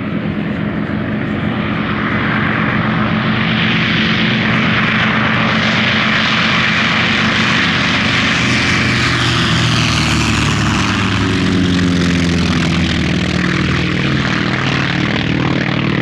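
A pair of North American T-28 Trojan warbirds flying a display pass, their radial engines and propellers running loud and steady. The engine note swells over the first few seconds and drops in pitch as they go by, about ten to twelve seconds in.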